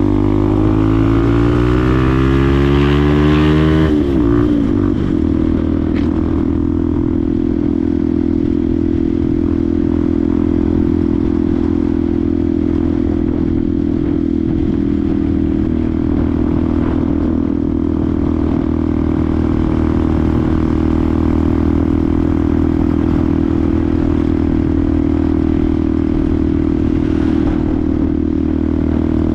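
Benelli TNT 125's single-cylinder 125 cc four-stroke engine under way. The revs rise for about four seconds, drop sharply, then hold steady at an even cruising pitch.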